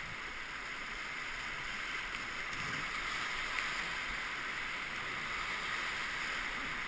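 Steady rush of whitewater rapids around a paddled raft.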